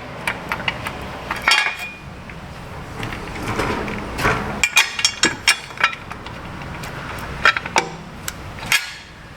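Hand tools and steel bolts clinking and tapping against metal as a new AC compressor is bolted into place. Scattered sharp clicks, with a cluster of quick ones about halfway through.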